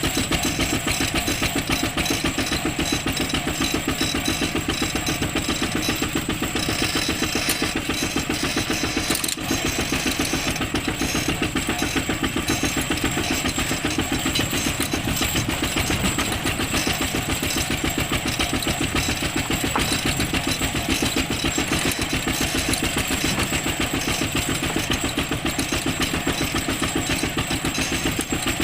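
Kubota ZT155 single-cylinder diesel engine of a two-wheel walking tractor running steadily under way, its firing beats evenly spaced.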